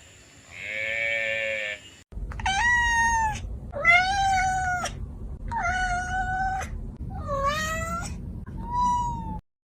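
A single bleat, then after an abrupt cut a cat meowing five times, each meow about a second long, over a low background hum.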